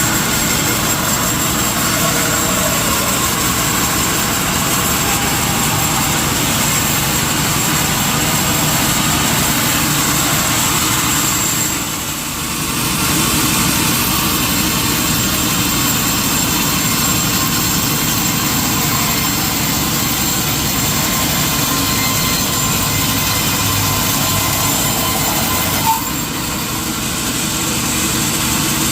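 Sawmill machinery running steadily, with a thin high whine over a dense mechanical din. The sound dips briefly about twelve seconds in, and again near the end right after a short sharp click.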